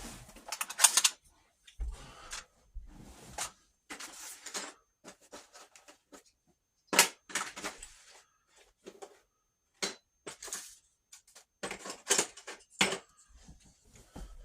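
Irregular clicking, clattering and rattling of small hard objects being handled, as when rummaging through tools and supplies for more staples.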